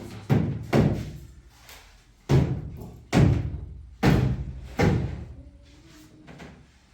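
Six heavy thuds at uneven intervals, each dying away briefly, the last two close together near the end of the run.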